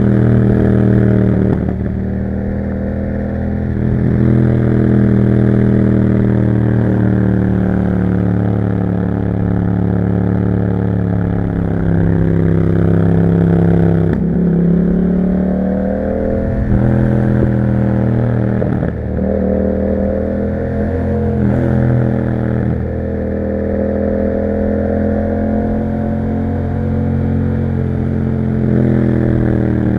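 Yamaha MT-07's parallel-twin engine through an Akrapovic exhaust, heard while riding. Its pitch climbs under throttle and drops sharply at several gear changes and throttle-offs.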